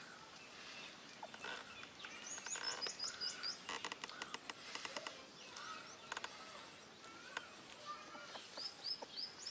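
Birds chirping faintly. A quick run of high, falling notes comes about two seconds in and again near the end, with softer, lower squeaky calls and a few short clicks between.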